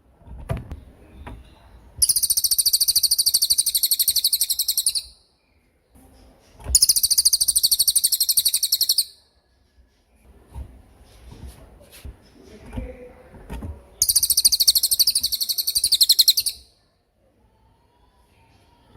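Cililin songbird singing its rapid 'tembakan' phrases: three long, very fast, high-pitched trills of a few seconds each, with short quiet gaps between them.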